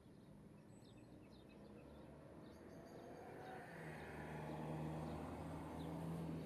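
Faint, short, high bird chirps scattered throughout, with a low steady motor drone swelling in from about halfway and becoming the loudest sound.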